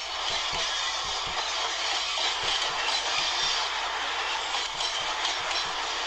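Freight train rolling past, its wagon wheels knocking over rail joints in quick pairs of clacks, over a steady rushing noise.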